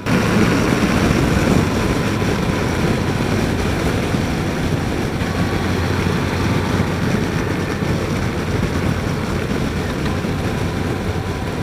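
Wind rushing over a helmet-mounted microphone, with a motorcycle engine running steadily underneath at cruising speed. The noise comes in abruptly at the start and then holds level.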